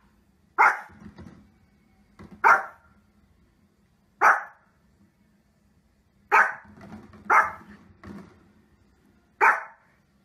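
Small fluffy dog barking: six sharp single barks, one every one to two seconds.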